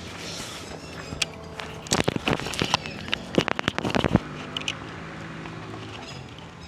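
A quick run of sharp knocks and crackles, bunched between about two and four seconds in, typical of a camera or phone microphone being handled and passed from hand to hand, over a steady low hum.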